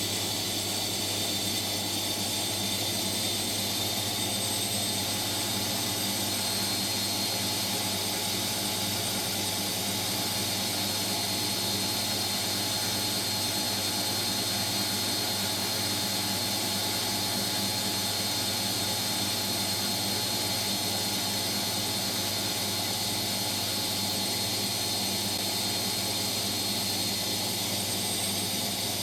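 Hotpoint Extra WMXTF742K washing machine's drum spinning at high speed: a steady hum with a high, even whine, unchanging throughout.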